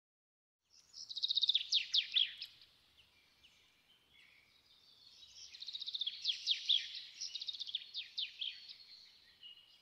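Songbird song in two long bouts of rapid trilled and down-sweeping high notes, the first starting about a second in and the second about halfway through, with scattered fainter calls between them.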